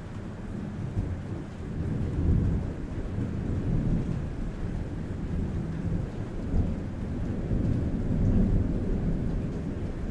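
Rolling thunder rumbling low, swelling twice, over steady rain falling on a roof.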